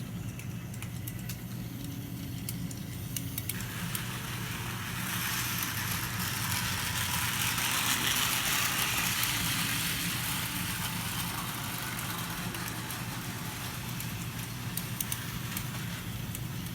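Small electric model train locomotives running around the track pulling a coach: a steady motor hum with the whir of wheels and light clicks over the rail joints, growing louder as the train passes close, then fading again.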